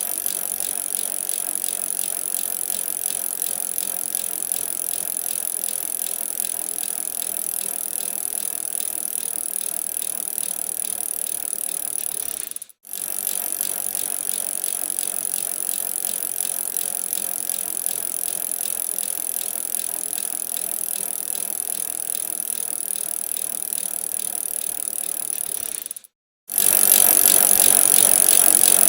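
Bicycle being ridden: a steady hiss of tyre and drivetrain noise with some rattle. It cuts out to silence twice, briefly, and comes back louder after the second break near the end.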